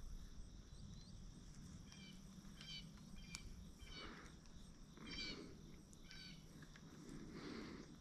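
Quiet outdoor ambience with faint, short bird chirps repeating about once a second from about two seconds in.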